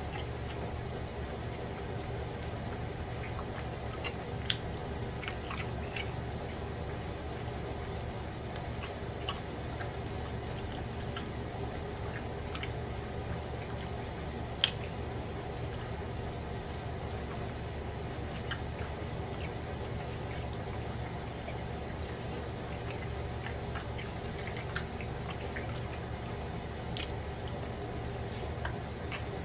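Close-up eating sounds of a man chewing pork chop: wet chewing and lip smacks, with scattered small clicks and a few sharper ones, over a steady low hum.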